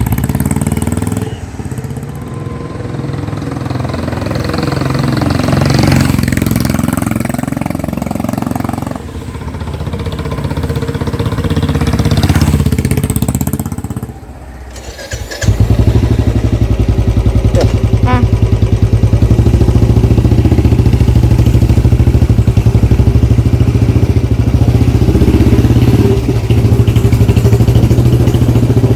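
Royal Enfield Classic 350's single-cylinder engine through an aftermarket barrel exhaust: the bike goes past twice, swelling and fading each time, then, after a short break about halfway, runs steadily and loudly up close with an even pulsing beat.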